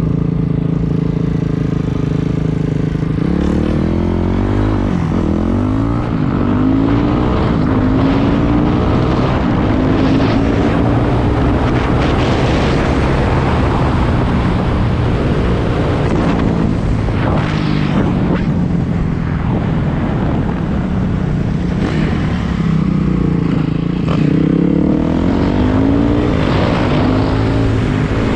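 Dirt bike engine running under way, steady at first, then revving up and down over and over through gear changes as the bike is ridden.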